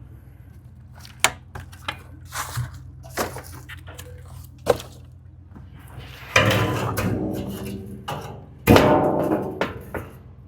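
Metal knocks and clunks, then two longer, loud grinding scrapes about six and nine seconds in, over a steady low engine hum, as a tow truck lifts a truck camper.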